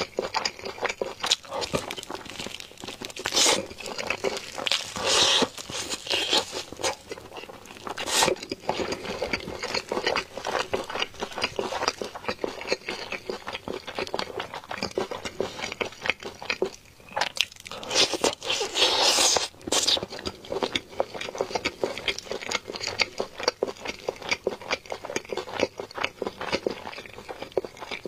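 Crunching bites and chewing of crispy, sauce-glazed fried chicken: dense, irregular crackling with louder clusters of bites every second or two.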